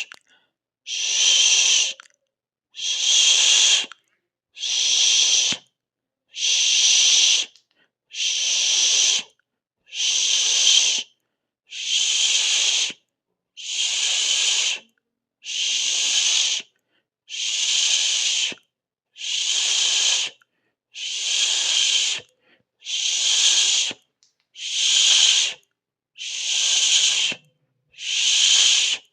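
A person's long hissing 'sss' made with the mouth, repeated in even bursts of about a second each, one roughly every two seconds with silence between.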